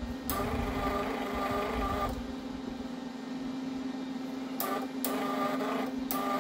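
MIG welder's wire-feed motor whirring in bursts as the gun trigger is pulled, pushing fresh wire through the liner toward the tip, over the welder's steady hum. One run of about two seconds, then three shorter runs in the second half, each starting with a click.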